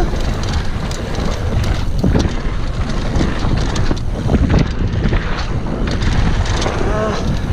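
Wind rushing over the microphone of a mountain bike descending fast on a downhill trail, with the tyres and bike rattling and knocking over rough ground.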